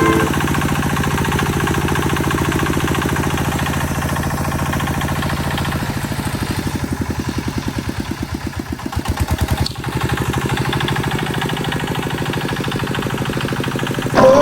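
Small boat engine running steadily, its beat changing and pulsing unevenly for a few seconds midway, with a brief drop near the ten-second mark before it settles again.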